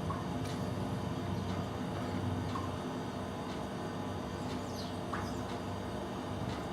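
Starlings giving short, scattered high calls and squeaks over a steady low background rumble.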